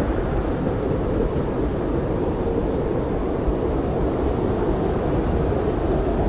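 Blizzard wind blowing steadily: a deep, even rushing noise with no distinct gusts or breaks.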